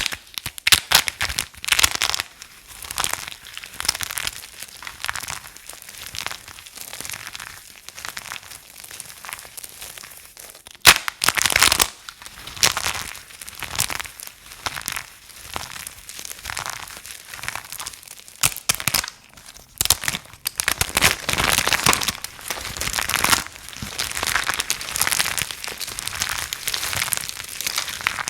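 Soap being crunched and crumbled close up: dense, irregular crisp crackling and crumbling, in clusters of strokes, with a sharp loud crack about eleven seconds in.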